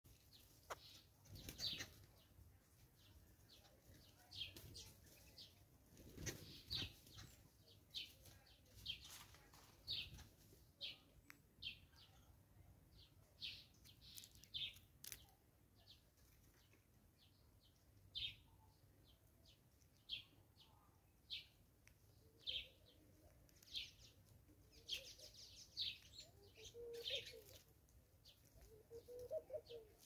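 Faint wild birdsong: short high chirps repeated about once or twice a second, with a few low thumps in the first ten seconds and a lower warbling call over the last few seconds.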